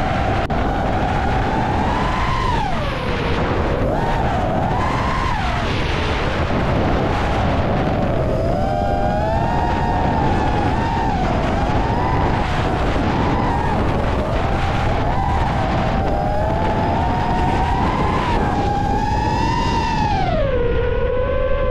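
FPV quadcopter motors whining, their pitch sweeping up and down with throttle changes, over a loud, steady rumble of wind.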